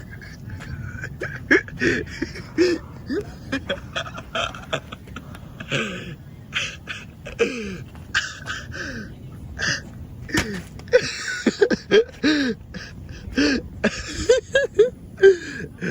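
Short, irregular non-word voice sounds: breathy gasps, squeaks and little laughs, many brief rising and falling pitch slides.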